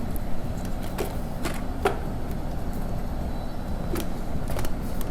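Ingredients and a utensil being put into a food chopper bowl: scattered light clicks and knocks over a steady low hum.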